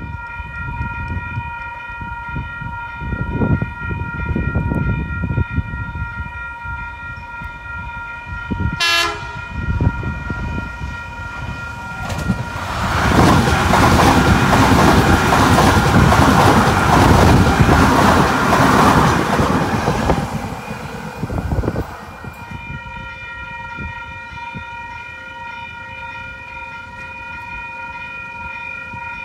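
Electric passenger train passing close by: its rumble builds, then a loud rush of wheel and rail noise lasts about ten seconds in the middle before it drops away. Level crossing warning bells ring steadily throughout, and there is one sharp crack about nine seconds in.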